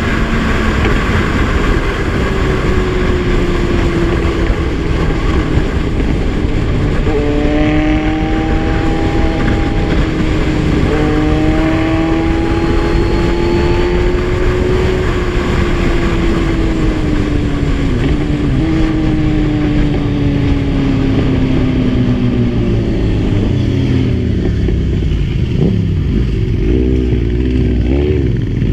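Kawasaki Z1000's inline-four engine under way with heavy wind rush. The engine pitch climbs slowly, then falls off as the bike slows, dropping to low revs near the end.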